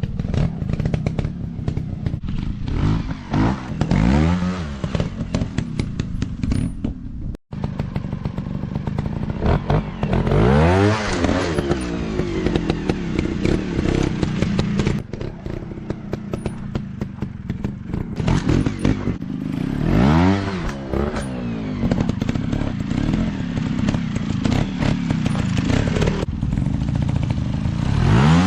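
Dirt bike engines revving, the pitch rising and falling again and again as the throttle is worked, over steady engine running with clattering and knocks. The sound cuts out for an instant about a third of the way through.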